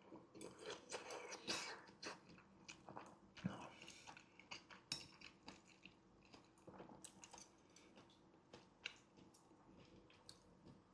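Close-miked eating of boiled wontons in broth: soft, wet chewing with sharp mouth clicks and smacks, busiest in the first few seconds and sparser after.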